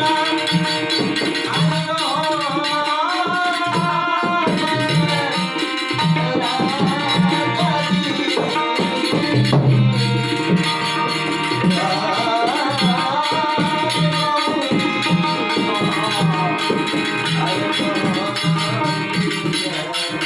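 A song with a singer's gliding melody carried over steady, rhythmic naal and tabla drumming.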